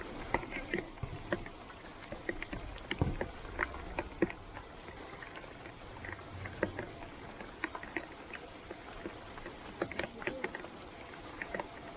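Rain: irregular sharp taps and splashes of drops over a steady wet hiss, with a few louder knocks.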